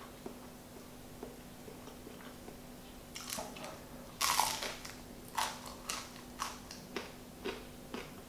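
Biting into a ciabatta sandwich of ham, salami and mozzarella: a few crisp crackles, then a loud crunchy bite about four seconds in, followed by crunchy chewing about twice a second.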